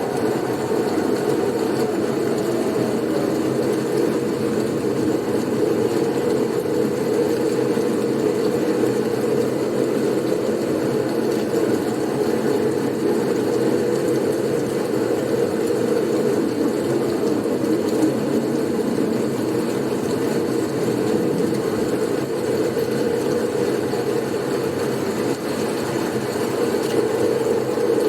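Blizzard wind sound for sleep: a steady, low rushing of snowstorm wind that holds an even level throughout.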